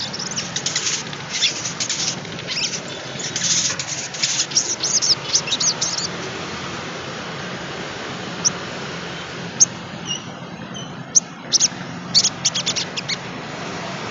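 Sogon trotol (sogok ontong) bird chattering. A fast run of sharp, high chips fills the first half, then come scattered single chips and a short quick cluster near the end.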